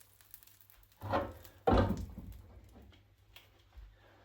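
Cookware being handled: two dull knocks, about a second in and again half a second later, then quieter handling noise.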